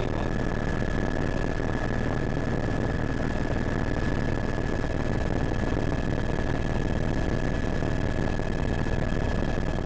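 Helicopter running steadily: a constant low rumble of engine and rotor with a steady high whine over it.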